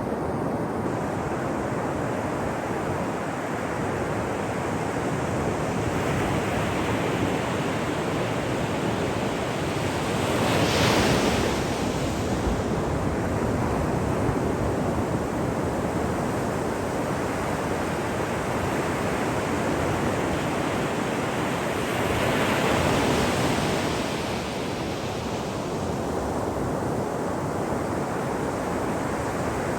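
Ocean surf washing steadily on a shore, with two bigger waves breaking and swelling louder, about a third of the way in and again about three-quarters through.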